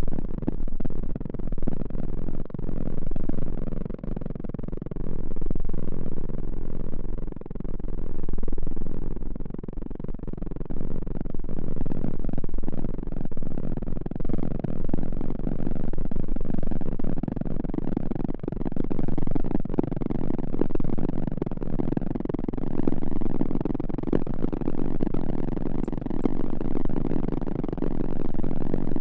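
Close-microphone ASMR trigger sounds: a dense, muffled rustling and crackling, low in pitch and uneven in loudness, over a steady low hum.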